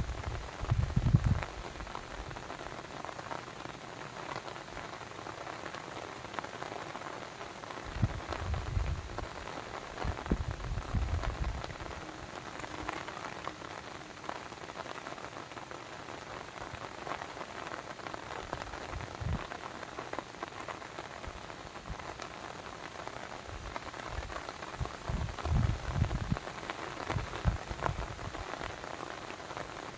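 Steady rain falling, an even hiss of many drops, with low rumbles swelling in and out a few times, near the start, around the middle third and near the end.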